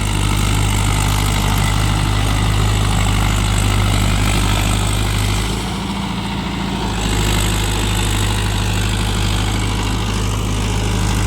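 Mahindra Yuvo Tech+ 585 DI tractor's diesel engine running steadily with a low, even drone, easing off briefly about halfway through.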